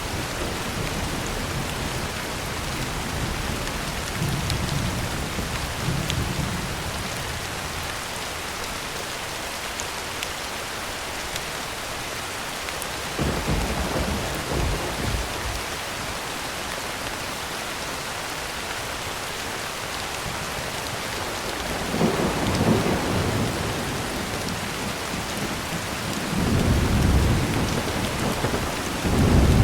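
Heavy rain drumming steadily on a tin roof, with thunder rolling in low rumbles several times, the loudest and longest near the end.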